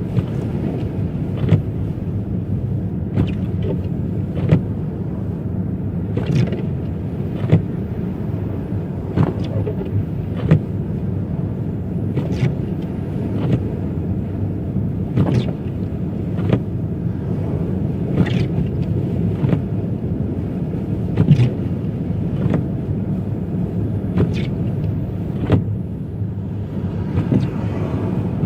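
Steady road and tyre rumble heard from inside a car on a rough, snowy road. Sharp strokes in an even back-and-forth rhythm, about one every one and a half seconds, fit windshield wipers sweeping snow.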